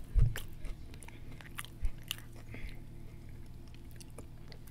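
Close-miked chewing of a breaded fried-chicken sandwich: scattered sharp, wet mouth clicks, with a low thump about a quarter second in and a smaller one near two seconds.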